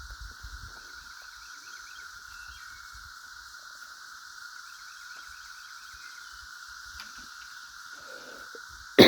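Steady, unbroken droning chorus of cicadas, with faint bird chirps over it in the first few seconds; a person coughs loudly right at the end.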